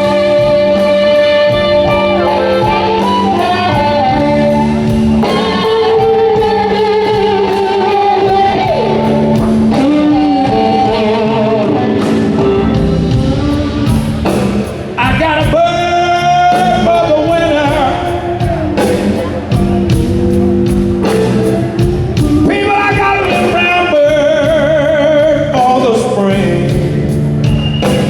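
Live blues-rock band playing a slow blues, with a singer's voice over electric guitar, bass and drums, heard in a large reverberant venue.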